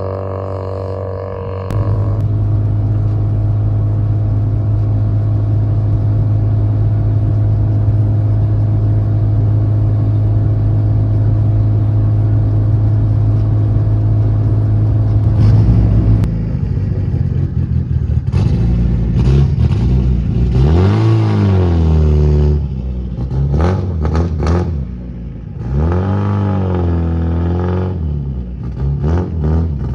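Mitsubishi Lancer Evolution VIII's turbocharged 4G63 inline-four through a Buschurs 3-inch catback exhaust. The engine holds a steady deep drone for most of the first half, then is revved up and down several times.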